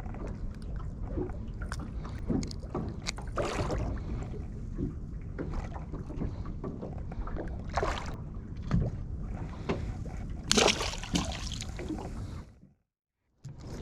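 Steady wind and water noise aboard a small fishing boat, with scattered knocks and splashes against the hull. A louder rush of noise about ten seconds in, then the sound cuts out completely for about a second near the end.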